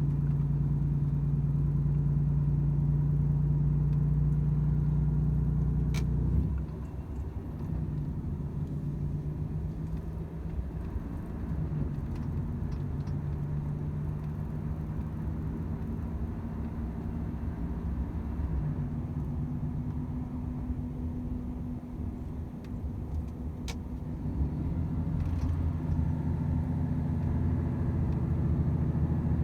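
Volvo FH 500 truck's 13-litre six-cylinder diesel running steadily on the road. About six seconds in, the engine note drops and goes quieter, as when coming off the throttle, and it builds again near the end.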